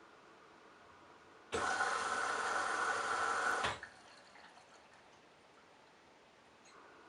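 Candy Bianca washing machine's water inlet valve opening for about two seconds, water rushing into the machine through the detergent drawer, then cutting off suddenly.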